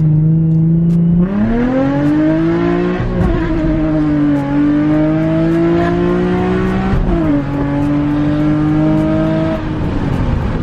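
Nissan 350Z V6 through its Tomei exhaust, pulling hard under full throttle. The steady low note jumps in volume about a second in and climbs in pitch. It drops sharply and climbs again twice as the car shifts up, then falls away near the end as the throttle is released. This is the first full-throttle run after the exhaust leak was clamped.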